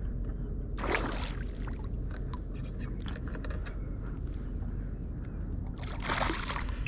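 Water splashing beside a kayak, a short splash about a second in and a longer one near the end, as a hooked trout is brought alongside. Light knocks and clicks of handling come between, over a steady low rumble.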